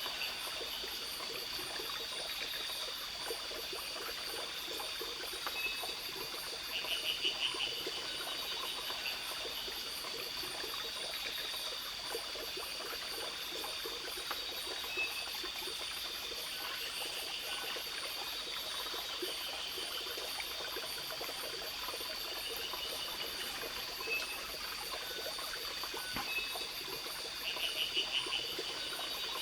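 Stream running steadily under a night chorus of insects: a constant high buzz and a fast, even ticking. Short pulsed calls come about every ten seconds, about 7, 17 and 28 seconds in.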